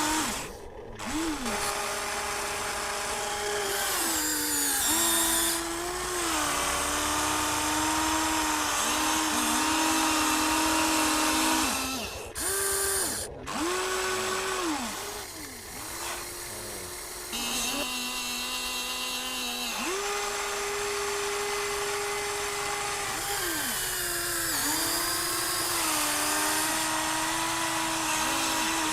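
Small electric motors of radio-controlled toy construction machines whining as they are driven. They start and stop many times, and the pitch bends up at each start and down at each stop.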